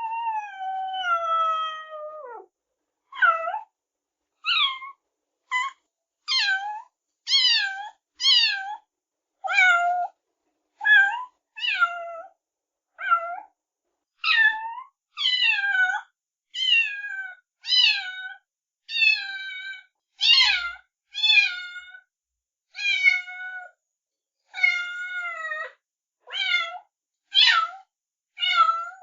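Cat meowing over and over: one long meow falling in pitch, then a steady run of short meows about one a second, with silence between them.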